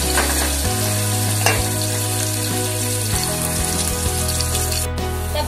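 Chopped onions and curry leaves sizzling in hot oil in an aluminium pot, being sautéed until they brown. A spoon stirs them, with a couple of knocks against the pot.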